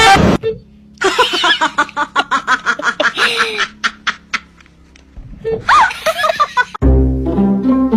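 A person laughing in a run of quick repeated bursts, with another short laugh about two thirds of the way in, then low sustained music notes coming in near the end.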